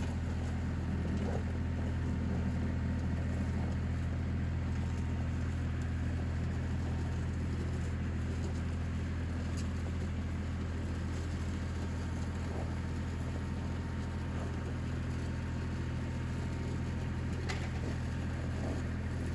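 Vehicle engine running steadily at a constant speed, a low even drone, with a faint click near the end.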